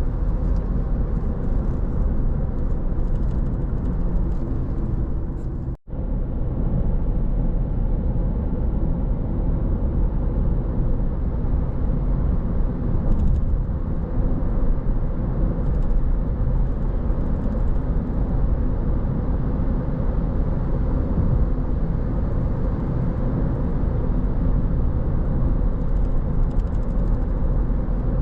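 Steady low rumble of a car driving on the road, tyre and engine noise with no speech or music. The sound drops out for a split second about six seconds in.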